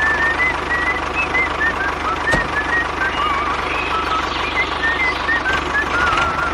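Small birds singing in short, warbling chirps over a steady low mechanical hum, with one sharp click about two and a half seconds in.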